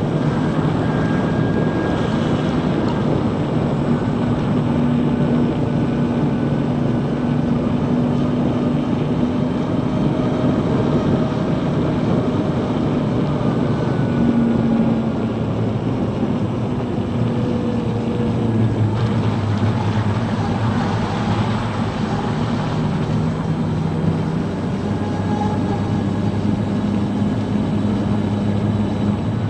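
Steady wind and road noise on the move aboard a Zero DSR electric motorcycle, with low hums that come and go and shift in pitch.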